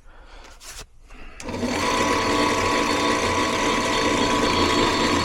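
Furnace draft inducer motor switching on about a second and a half in and then running loud and steady with a rough, diesel-like noise and a steady whine. The noise comes from its blower wheel, which is damaged and loose on the motor shaft.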